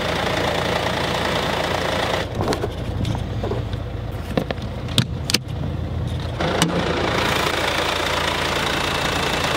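Mercedes car engine idling steadily. In the middle there are a few sharp clicks and knocks as the bonnet is released and opened, and after that the idle is heard openly from the engine bay.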